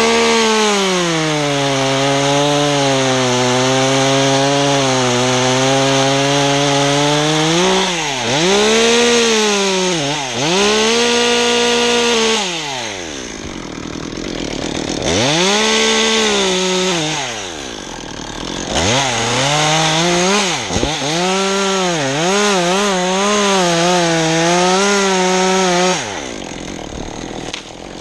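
Chainsaw cutting wood, its engine pitch sagging and wavering under load, with several short revs that rise and fall between cuts. The saw drops off about two seconds before the end.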